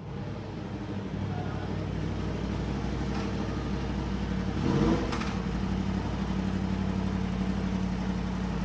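Motorcycle engine running at steady revs. Another engine briefly rises and falls in pitch about five seconds in, as if passing close by.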